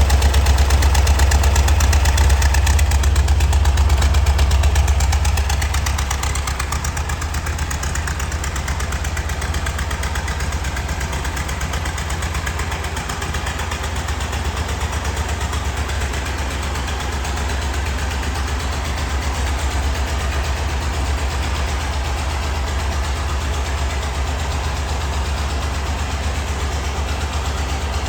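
1977 Volkswagen Westfalia camper's air-cooled flat-four engine idling steadily, a low, even rumble that drops a little in loudness about five seconds in.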